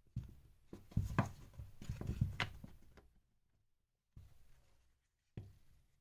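Plastic power-tool housing halves being handled and fitted together: a run of light clicks and knocks over the first three seconds, then two single knocks about four and five seconds in.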